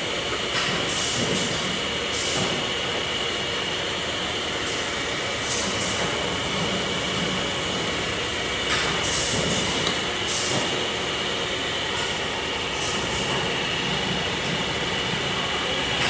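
Steady factory machinery noise with a constant high whine and repeated short bursts of air hiss, typical of pneumatic machines on a tyre production line.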